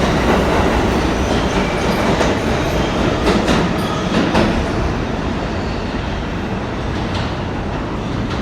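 New York City subway train running through an underground station, its wheels clacking over the rail joints, with a cluster of sharper clacks a few seconds in. The rumble eases slightly toward the end.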